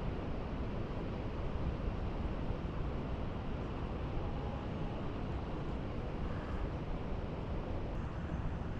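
Steady rushing of high, fast water through a spillway after heavy rain, with wind buffeting the microphone.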